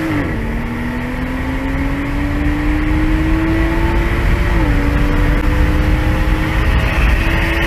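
Car engine accelerating hard at full throttle, heard from inside the cabin over heavy road and wind noise. Its pitch climbs steadily and drops at an upshift just after the start and again about halfway through.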